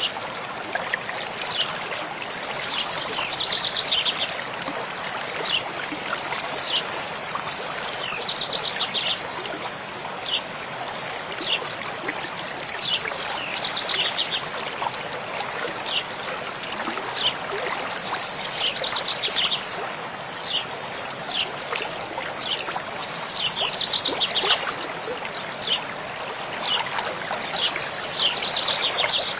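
Mountain stream running steadily, with birds singing over it. One bird repeats a short, rapid high phrase about every five seconds, and single chirps are scattered in between.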